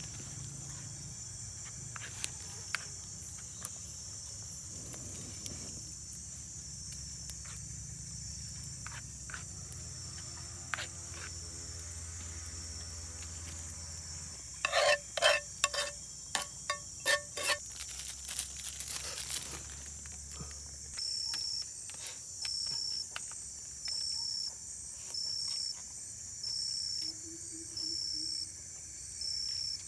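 Forest insects keep up a steady high-pitched buzz. About two-thirds of the way in, an insect starts chirping in an even rhythm, about once every second and a half. Around the middle there is a short cluster of loud sharp knocks or calls.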